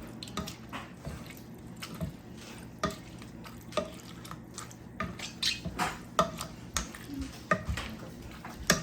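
Potato masher crushing grapes in a pot: wet squishing with irregular knocks of the masher against the pot, coming more often in the second half.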